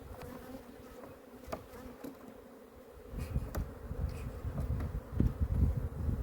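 Honeybees buzzing in a steady hum around an opened hive. From about halfway, low gusty wind buffeting on the microphone grows louder than the hum.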